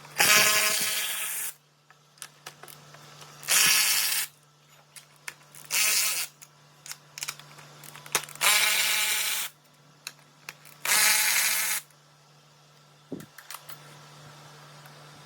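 A cordless power tool run in five short bursts of about a second each, spinning bolts out during an engine teardown, with small clicks of parts being handled between bursts.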